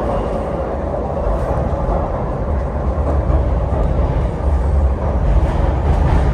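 MTR Kwun Tong Line C-train running between stations, heard from inside the car: a steady low rumble of wheels on track and running gear, growing slightly louder toward the end.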